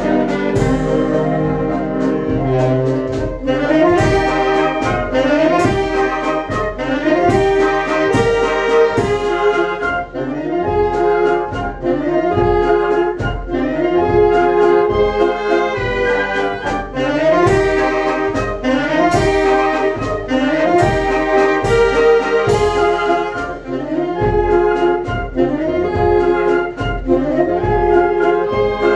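Children's brass band playing a piece with a steady, regular beat under the held brass notes.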